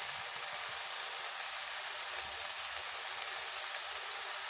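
Vegetables sizzling steadily in a frying pan as they cook.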